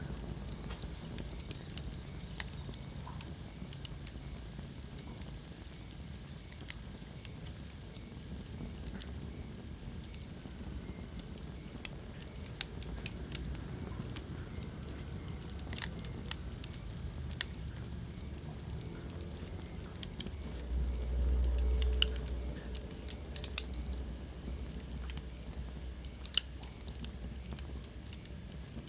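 Wood fire in a fireplace crackling, with sharp pops scattered irregularly over a steady low hiss. About twenty seconds in, a low rumble swells for a couple of seconds and fades.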